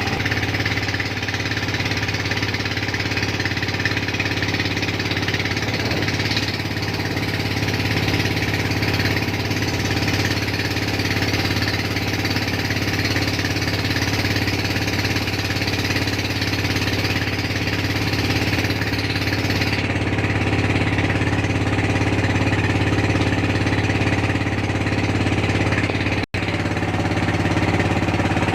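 Motorboat engine running steadily with a throbbing chug. It cuts out for an instant near the end.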